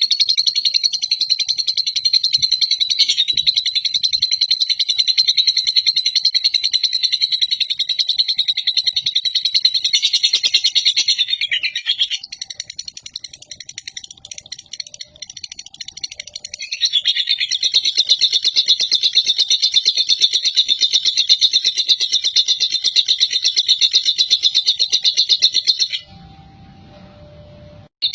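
Lovebird singing its long 'ngekek' chatter, the competition song prized in lovebirds: a shrill, very rapid, unbroken stream of chirping notes. It goes on for about twelve seconds, weakens for a few seconds, rises again for about nine seconds, then breaks off suddenly near the end.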